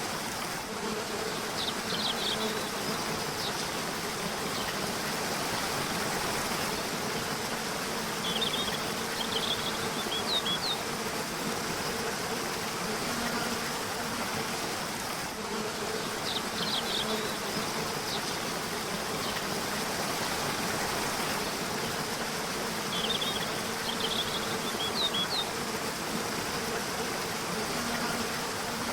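Steady rush of a river or waterfall, with a small bird giving short high twittering phrases four times, about every seven seconds. A low buzzing hum like a flying insect comes and goes under the water.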